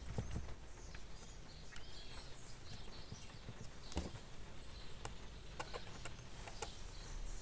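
Faint clicks and light handling noise of a screwdriver driving the screws back into a hair dryer's plastic housing; the dryer itself is not running.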